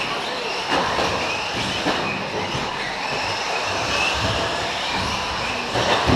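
Several electric 1:10 four-wheel-drive short course RC trucks running on an off-road track: brushless motors whining up and down under tyre and drivetrain noise, with a few sharp knocks from jumps and impacts.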